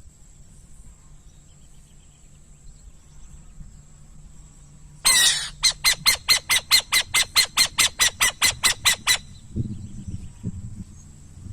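Burrowing owl calling: a harsh rasping screech about five seconds in, followed at once by a rapid run of about eighteen sharp chattering notes, roughly five a second, that stops after some four seconds.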